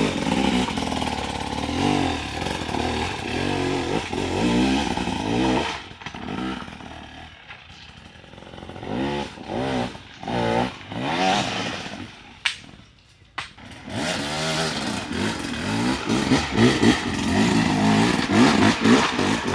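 Dirt bike engines revving, the pitch rising and falling repeatedly. The sound drops away briefly about twelve seconds in, then the engine noise builds again.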